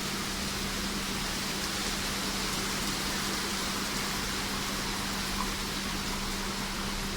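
Heavy rain falling in a steady, even hiss, with a steady low hum underneath.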